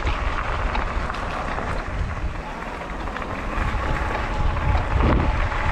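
E-bike riding on a wet road: wind rushing over the microphone with a low rumble and tyre noise, a few small clicks, and a faint steady whine coming in about halfway through.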